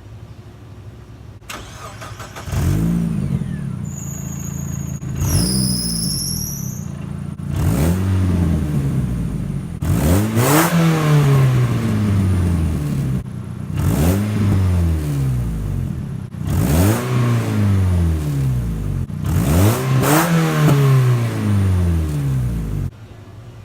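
Mazda Miata's four-cylinder engine revved hard about seven times through its freshly fitted, loud exhaust, the pitch climbing and dropping back on each blip. A high falling whistle sounds over the second rev, and the sound cuts off suddenly near the end.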